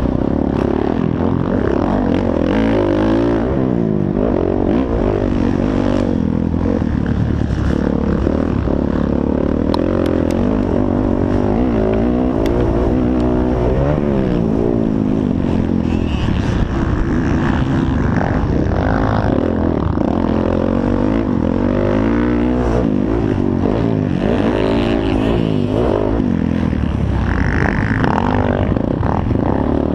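Several motocross dirt bike engines racing at once, their pitches repeatedly rising and falling and crossing one another as the bikes accelerate and back off.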